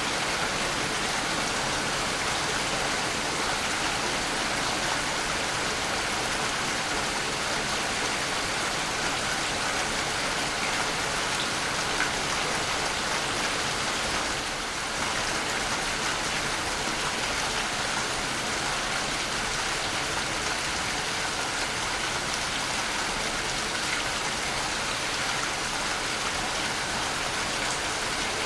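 Waterfall: a steady, even rush of falling water, with a slight brief dip in level about halfway through.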